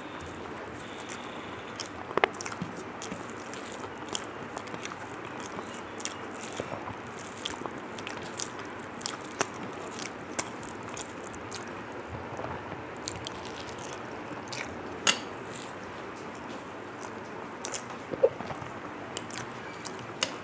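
Close-miked chewing and eating of a rice meal: scattered wet clicks and smacks of mouth and food over a steady hiss, with louder ones about two and fifteen seconds in.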